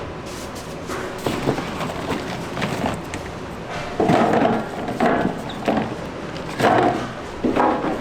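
Irregular knocks and thuds of kitchen work on a wooden surface, with heavier clusters about four seconds in and near the end.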